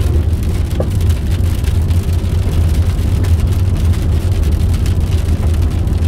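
Steady low rumble of a car driving on a gravel road, heard inside the cabin, with rain ticking on the car.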